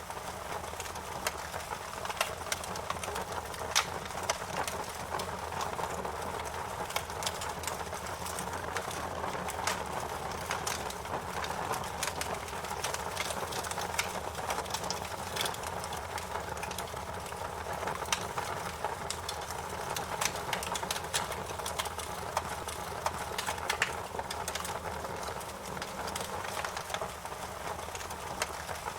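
Wood fire burning in a fireplace: a steady hiss with frequent irregular crackles and occasional louder pops.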